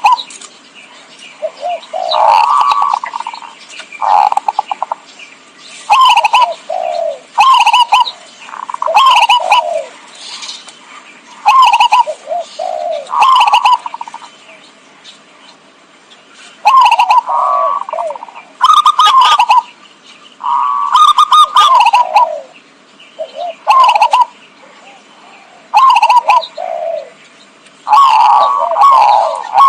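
Zebra dove (perkutut) cooing: loud, repeated short phrases of quick staccato coo notes, one to two seconds apart, with a longer pause a little past the middle. It is a lure call for drawing in wild zebra doves.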